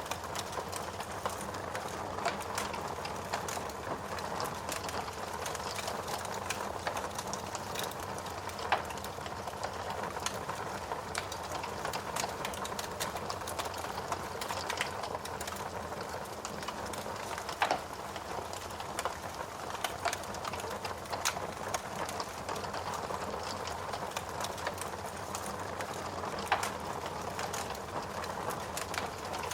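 Wood fire burning in a fireplace: a steady hiss with frequent irregular crackles and snaps, and a few louder pops about nine, eighteen and twenty-seven seconds in.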